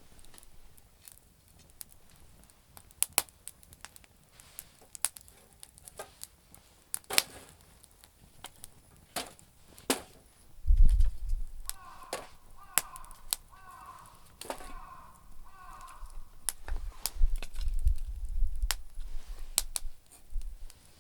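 Campfire of damp firewood crackling, with sharp irregular pops and snaps throughout. Partway through, a bird calls about five or six times in the background. Low rumbles come twice, around the middle and near the end.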